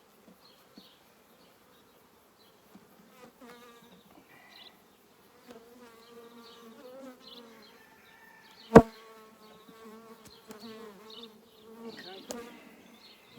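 Honeybees buzzing around an open hive, a hum that is faint at first and grows fuller a few seconds in. A single sharp knock stands out about nine seconds in, with a smaller one near the end.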